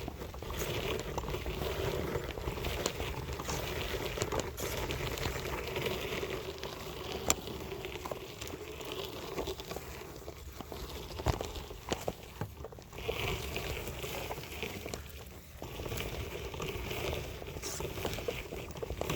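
Wheelchair being pushed over rough ground, its wheels crunching and crackling, with scattered sharp clicks.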